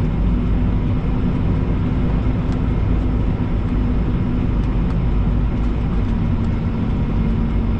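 Semi truck's diesel engine running steadily, a constant low rumble with a steady hum and a few faint ticks.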